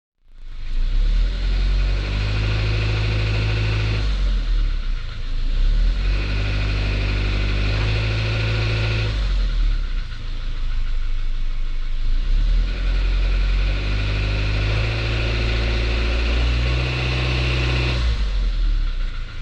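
Suzuki Jimny Sierra JB74's 1.5-litre four-cylinder engine running under load at low rpm, with the abnormal rattle ("garagara, karakara") that sounds when accelerating at low revs, even when the engine is warm.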